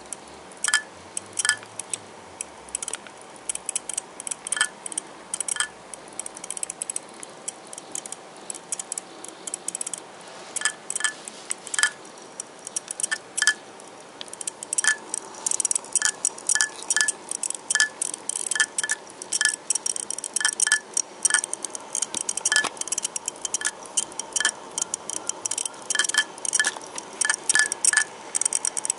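Hitachi 2.5-inch hard disk drive (0S03085) running with a faint steady whir, broken by irregular sharp, ringing clicks, a 'karan-karan' rattle that comes more often in the second half. It is an abnormal noise for the drive, though it still reads when in good condition and its SMART values show nothing wrong.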